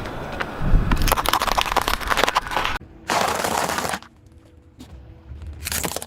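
Rapid crackling and crunching as objects are crushed under a car's tyre, in short bursts broken by abrupt cuts.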